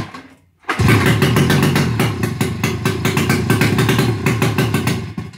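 Snowmobile two-stroke engine, bored out to 800cc and running with no exhaust, catches about a second in. It runs loud with rapid, crackling firing for about four and a half seconds, then stops near the end.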